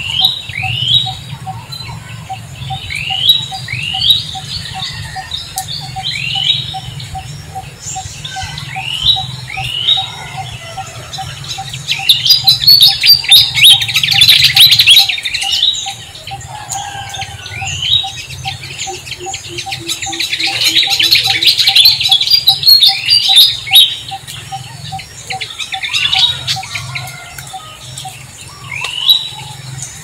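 Birds chirping: short sweeping chirps repeated every second or two, often in pairs, with two spells of dense, busy chattering, about halfway through and again a little later. Underneath runs a steady, fast pulsing note.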